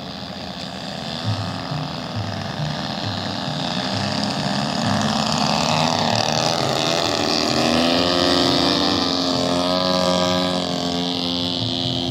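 Engine of a radio-controlled model airplane running with a steady buzz, growing louder to a peak about two-thirds of the way through as it passes, then easing off slightly.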